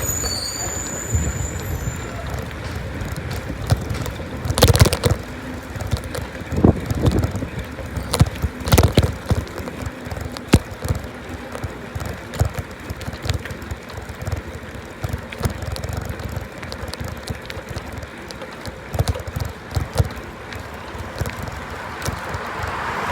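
Riding a bicycle: steady wind noise on the microphone over a low rolling rumble, with scattered sharp knocks and rattles, a few of them louder.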